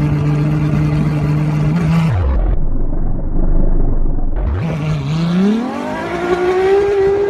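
An engine running at a steady pitch drops away about two seconds in and sounds muffled for a couple of seconds. It then revs up, its pitch climbing steadily near the end.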